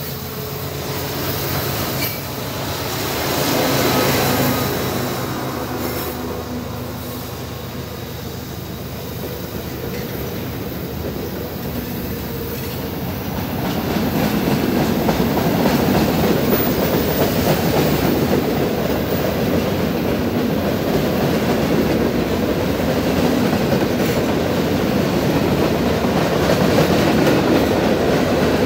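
CSX freight train rolling past, its wheels running on the rails in a steady rumble that grows louder about halfway through.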